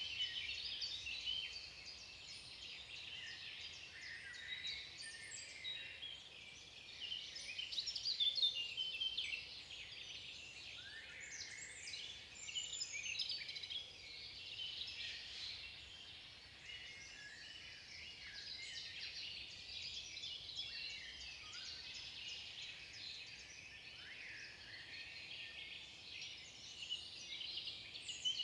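Many small songbirds chirping and calling at once, a dense, continuous chatter of short high notes with an occasional rising or falling glide.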